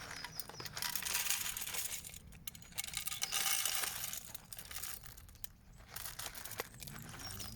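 Plastic bag crinkling and rustling in irregular stretches as dried bird food is tipped out of it.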